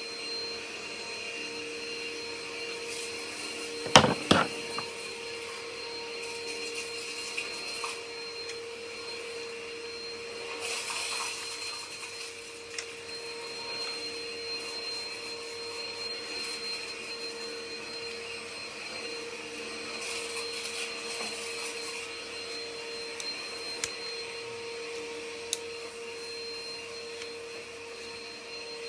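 Vacuum cleaner motor running steadily with a constant whine. There is a sharp knock about four seconds in, and the airflow rushes louder twice, around the middle and again later on.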